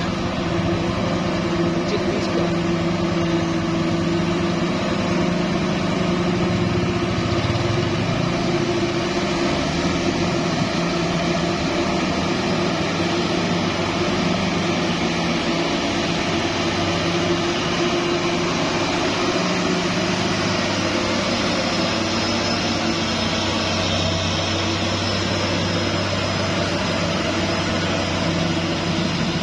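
Diesel engine of a heavily loaded truck running steadily, its pitch shifting slightly a couple of times.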